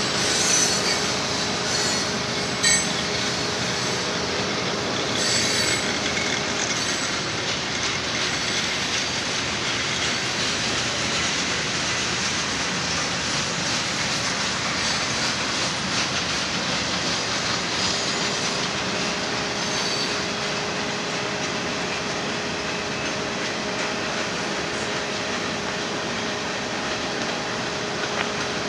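Cars of a Union Pacific manifest freight train rolling past: a steady rumble and rush of steel wheels on rail, with a few sharp clicks over rail joints in the first seconds. A steady high wheel squeal runs alongside, drops out for about ten seconds midway, then returns.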